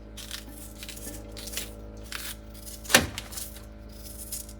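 Kitchen handling noises: soft scraping and rustling, then one sharp knock about three seconds in, over a steady low hum.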